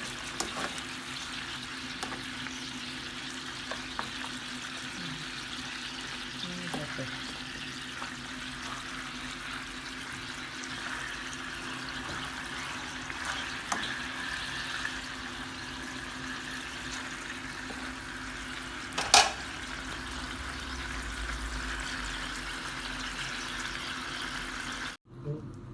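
A whole small chicken frying in a pan, with a steady sizzle. It is broken by a few small clicks and one loud, sharp clack about nineteen seconds in. The sound cuts off suddenly just before the end.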